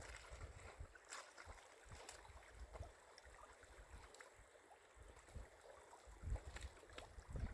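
Near silence, with low wind buffeting on the microphone near the end and a few faint light clicks.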